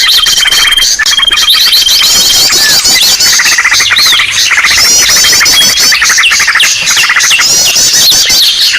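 A dense chorus of many small birds chirping and trilling over one another: rapid repeated chirps, short rising whistles and a held high trill, loud and unbroken. It is a "ribut" bird-lure call, a busy mixed-bird recording played to draw other birds in.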